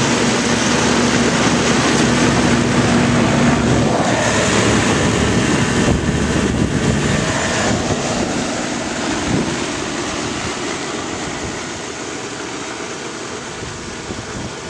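Old Marvair HVAC unit running, a steady whooshing blower noise with a hum underneath. The hum drops out about four seconds in, and the sound fades gradually over the last several seconds.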